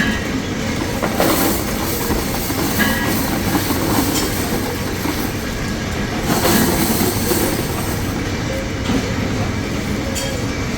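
Metalworking machinery running with a loud, steady mechanical noise, growing louder about a second in and again past the middle.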